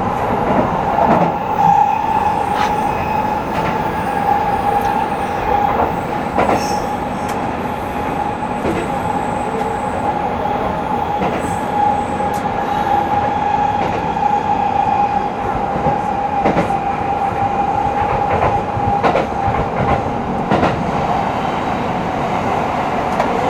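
Tozai Line commuter train running steadily between stations, heard from inside the car. A constant rumble of wheels on rail carries a steady high whine throughout, with scattered clicks from the rail joints.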